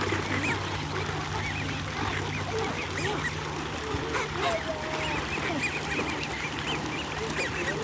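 A large flock of wild birds calling together, many short rising-and-falling calls overlapping in a continuous chorus, over a steady low hum.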